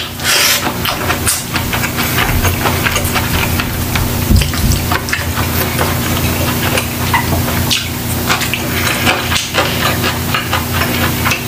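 Close-miked chewing of a mouthful of food, with wet smacking and a steady run of small crackling clicks.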